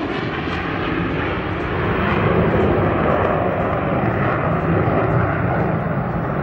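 Boeing EA-18G Growler's twin jet engines, a steady rushing jet roar that grows a little louder about two seconds in.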